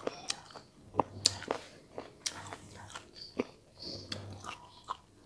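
Close-miked chewing of stir-fried chicken gizzards, with irregular sharp crunches and clicks as the firm gizzards are bitten and chewed.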